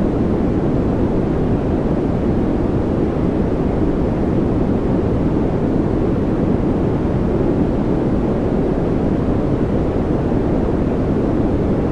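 Steady, unchanging noise from a white-noise track, a deep rush with most of its weight low and little treble.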